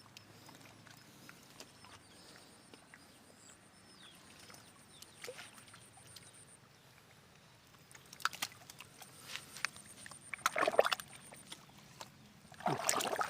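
Water splashing and sloshing in short, irregular bursts. It is mostly quiet for the first several seconds, then grows busier from about eight seconds in, with the loudest splashes around ten to eleven seconds.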